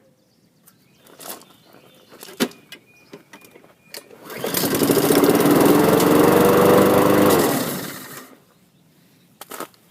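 Lawn mower engine started on a squirt of starting fluid (ether) in the air intake after sitting all winter: after a few knocks it catches about four seconds in, runs loud for about three seconds with its pitch rising slightly, then winds down and stops.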